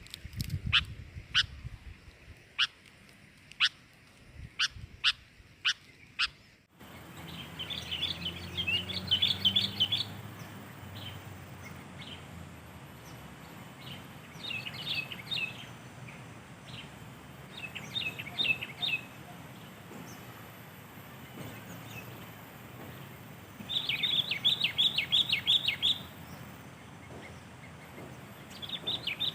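Sooty-headed bulbuls calling. First come sharp single notes at irregular intervals. After an abrupt cut to a steady hiss, they give several one-to-two-second bouts of rapid, bubbly chirping, the longest and loudest a little after the middle.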